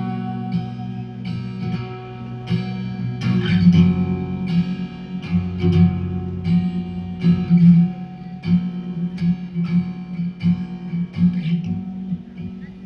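Guitar playing an instrumental passage of a song, plucked notes about twice a second over a held low note.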